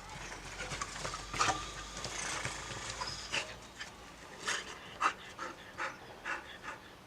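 Dog panting during play, with irregular scuffling and knocks.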